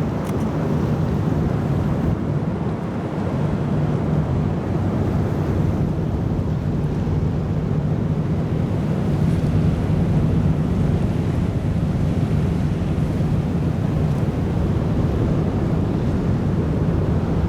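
Steady low drone of the car ferry Oosado Maru's engines, with rushing water and wind buffeting the microphone.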